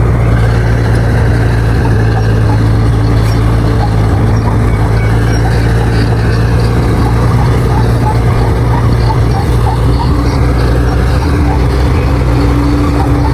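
Bulldozer's diesel engine running steadily, a constant low drone with no change in speed, with faint scattered ticks above it.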